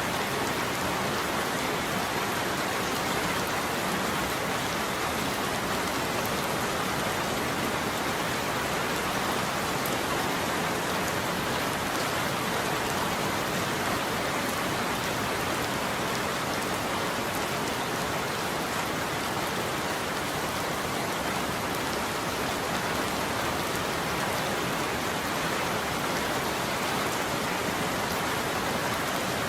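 Steady heavy rain falling on a surface, an even hiss with scattered drop ticks; no thunder is heard.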